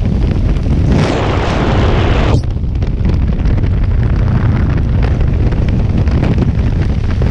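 Loud wind buffeting the microphone, a steady low rushing rumble, with a stronger, brighter gust of rushing noise about a second in that lasts a second and a half and cuts off sharply.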